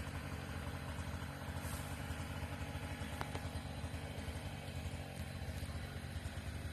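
An engine running steadily at a low idle-like pitch, with a faint click about three seconds in.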